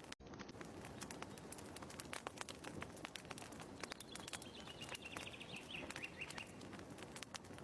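Fireplace crackling with dense, sharp pops and snaps. A bird's short, rapid trill falls in pitch about four seconds in. The sound cuts out for an instant just after the start.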